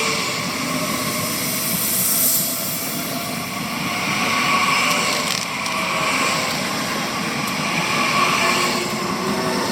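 Train running through the station: a steady hiss and rumble of wheels on rail, with faint wavering squeals.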